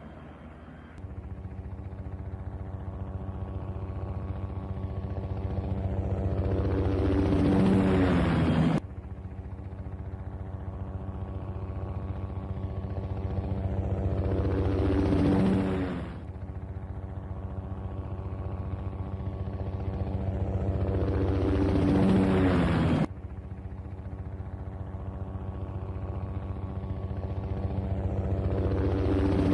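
Helicopter fly-by sound effect played in a loop. The steady rotor chop grows louder over about seven seconds and its pitch drops as it passes. Then it cuts off abruptly and starts again, about four times.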